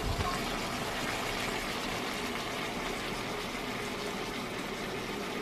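Diced chicken sizzling steadily in a frying pan, with a brief knock of a wooden spoon against the pan right at the start.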